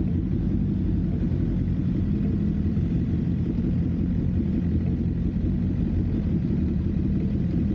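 Steady low rumble of a moving vehicle, engine and road noise holding an even drone with no change in speed.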